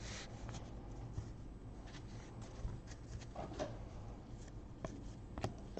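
Faint rustling and soft clicks of baseball trading cards being handled and slid through a pack, a few small ticks spaced about a second apart.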